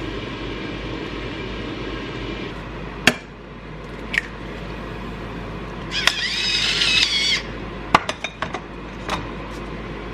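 Kitchen cooking sounds: bacon sizzling in a frying pan, with sharp clicks and clinks of utensils and cookware. A high squeal lasts over a second about six seconds in.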